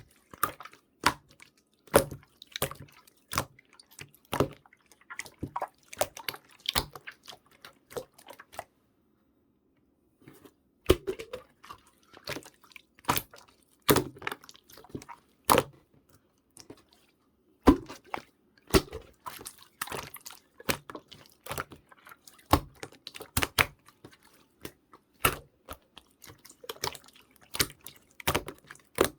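Slime being squeezed, poked and stretched by hand, making irregular wet clicks and pops, with a pause of about two seconds roughly a third of the way through.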